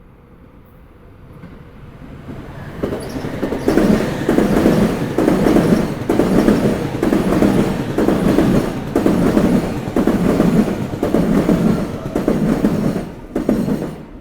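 A train passing over rail joints: the wheels clatter in a loud, regular rhythm of pulses, building up over the first few seconds. The clatter cuts off sharply near the end as the last car clears the joint.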